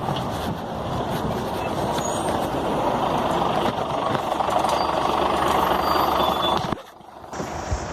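Running noise heard from inside a 2003 Scania CN94UB OmniCity city bus: engine and road noise with a hissing edge, growing louder through the middle, then cutting off abruptly near the end.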